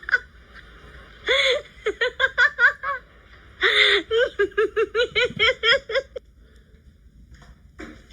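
High-pitched laughter: two shrieking bursts, each followed by a quick run of short 'ha-ha' pulses, about five a second, stopping about six seconds in.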